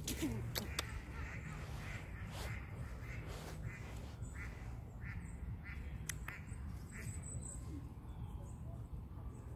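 A bird calling over and over in short, quack-like calls, about two a second, over a steady low rumble. A few sharp clicks come near the start and again around six seconds in.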